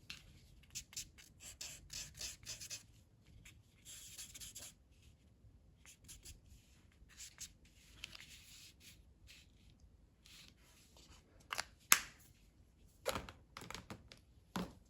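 A colouring tool rubbing on paper in many short back-and-forth strokes, shading in colour, with a few sharper clicks near the end.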